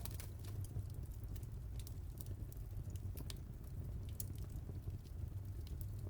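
Wood fire crackling: scattered sharp pops and snaps, several a second, over a low steady rumble of the burning.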